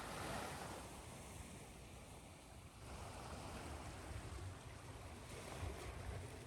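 Ocean surf washing on a shore, blended with white noise: a soft, steady wash of waves, with one wave swelling up in the first second.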